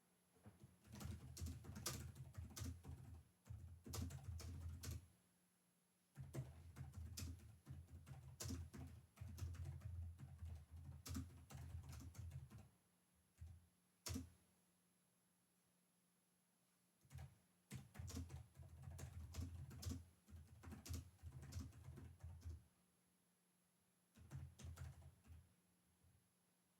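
Typing on a computer keyboard in several bursts of quick key clicks, broken by pauses of a second or more, with a single key press in one of the gaps.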